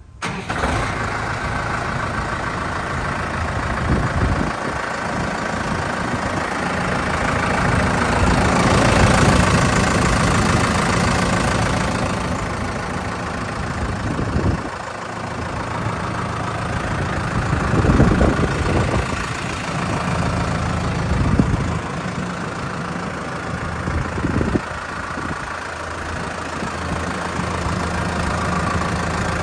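Case JXU105 tractor's diesel engine running at idle, steady apart from a louder stretch about a third of the way in.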